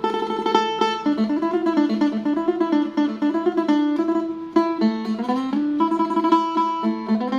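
Phin, the Isan plucked lute, playing a lam phloen melody in quick plucked notes over a steady drone.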